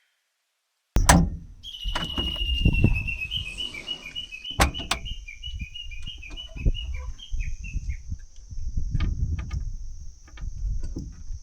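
A bird calling in a long run of short repeated chirps, over a steady high insect buzz. Low rumbling and a few sharp clicks sit under it, and the sound cuts in suddenly about a second in.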